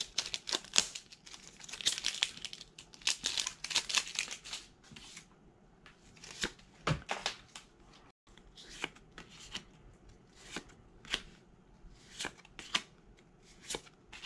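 Foil Pokémon booster pack wrapper crinkling and tearing open, followed by a series of short, sharp card flicks spaced about a second apart as the cards are slid through the hand one by one.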